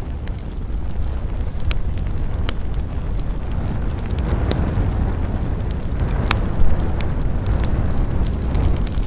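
Wood campfire burning: a steady low rumble of flames with scattered sharp crackles and pops from the burning wood, the loudest pop about six and a half seconds in.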